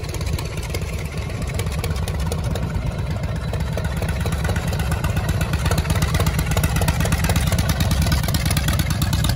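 Harley-Davidson Shovelhead V-twin motorcycle engine idling steadily with a fast low pulsing, growing a little louder toward the end.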